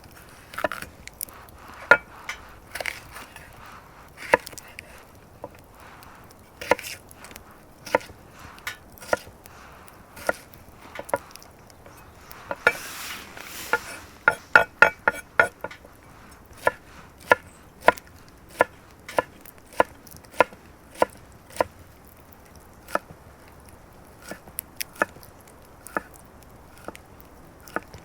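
A blade chopping against wood: sharp separate chops about one a second, with a quick run of about six strokes near the middle.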